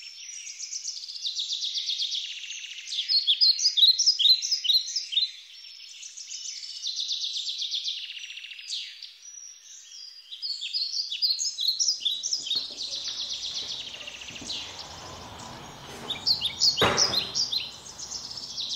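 Songbirds singing, a dense chorus of rapid trills and repeated chirps. From about two-thirds of the way through, a faint low noise joins the birds, and near the end there is one sharp click.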